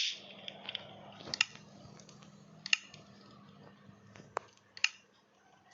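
A few sharp clicks and taps, four spaced over several seconds, over a faint steady hum.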